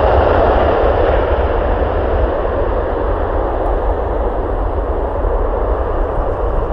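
Jet aircraft passing close by: a broad engine roar, loudest at the start and slowly fading, over a steady deep rumble.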